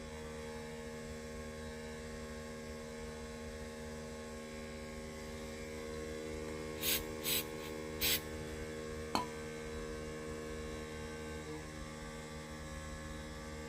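Electric air compressor running with a steady hum that cuts off suddenly near the end. About seven seconds in there are three short hisses of air or spray, and a single click follows about two seconds later.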